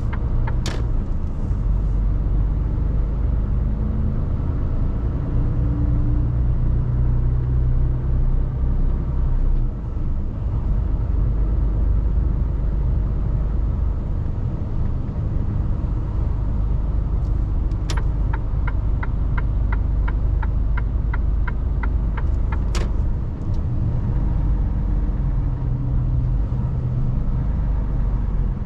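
Mercedes-Benz Actros truck's diesel engine running with a steady low drone, heard from inside the cab while driving. About 18 seconds in, a run of even clicks, about three a second, lasts for about five seconds.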